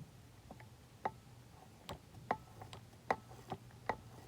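Light, irregular clicks and taps, roughly two a second, from a postwar Lionel toy train locomotive being handled as its wheels are turned by hand to work grease into the gears.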